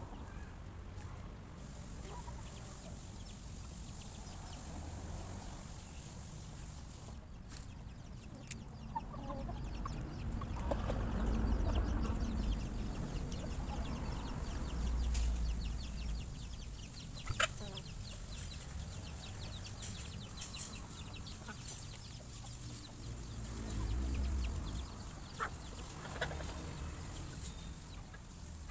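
A flock of chickens clucking, with a few sharp clicks and a low rumble that grows louder partway through.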